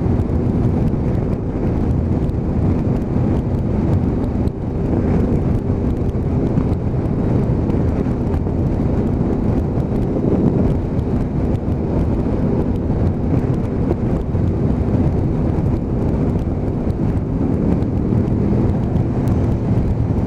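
Motorcycle riding along at speed: its engine drones steadily under heavy wind buffeting on the helmet microphone, with other motorcycles going past.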